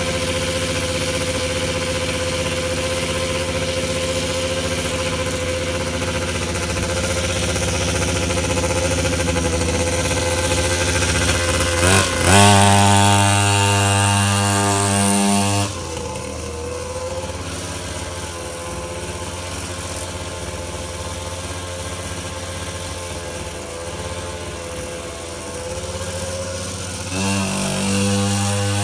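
Orion dirt bike engine idling steadily, then revved up sharply partway through and held high for a few seconds before dropping back to idle; it is revved again near the end.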